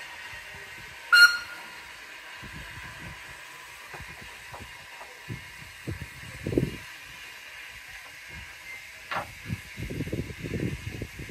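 A heritage train pulling out of a station: one short whistle about a second in, then low rumbling and clunking from the carriages and brake van as they start to roll, growing busier near the end.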